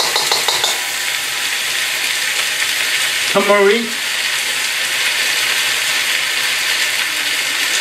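Beef and vegetables sizzling steadily in a hot wok over a gas flame, with a few quick spatula scrapes against the wok near the start.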